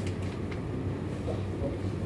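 Seibu Railway electric train running along the line, heard from on board: a steady low rumble of wheels and running gear, with a few faint clicks near the start.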